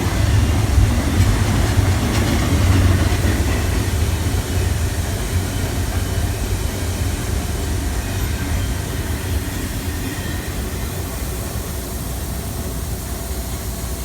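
Norfolk Southern single-stack intermodal freight train rolling past, its container cars making a steady noise of wheels on rail. It grows a little quieter over the second half.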